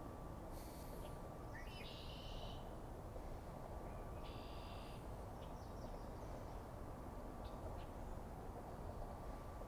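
Two short bird calls, one about two seconds in and another about four and a half seconds in, over a steady low outdoor rumble, with a few faint ticks.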